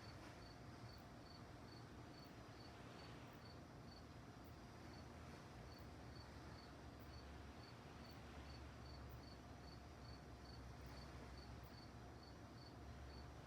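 Faint crickets chirping steadily, a regular high chirp about two or three times a second.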